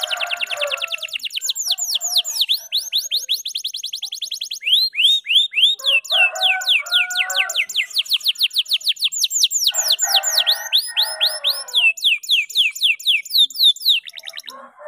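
F2YS canary singing a long, unbroken song: fast trilled runs of repeated downward-sliding whistled notes, with the speed changing from phrase to phrase. Short stretches of lower, buzzier chatter sit under the trills a few times.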